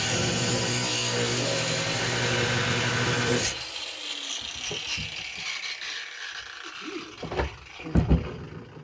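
Angle grinder running against metal, a steady motor hum under a loud grinding hiss, then switched off about three and a half seconds in. Light metal clinks and rattles follow, with two sharp knocks near the end.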